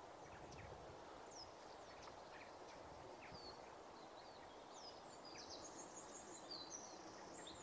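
Faint birdsong in open parkland: scattered short, high, falling chirps, with a busier run of high notes about five to seven seconds in, over a faint steady background hiss.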